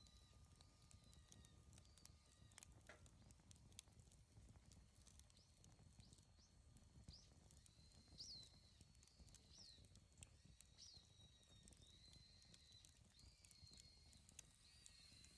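Faint crackling and popping of a wood bonfire, scattered sharp snaps over a low rumble. From about halfway in, a bird calls repeatedly in the background, short high chirps with a quick upward flick, roughly once a second.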